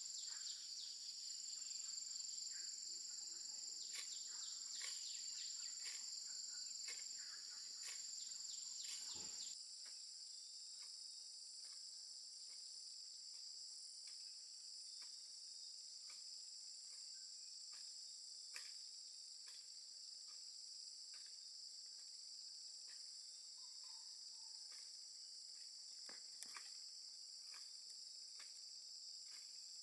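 Steady, high-pitched chorus of insects, with short falling chirps and a few light clicks over it at first. About a third of the way in it shifts abruptly to a slightly quieter, different steady drone.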